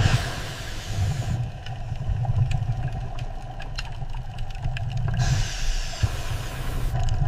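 An engine running with a steady low rumble. A hissing noise rises over it at the start and again about five seconds in.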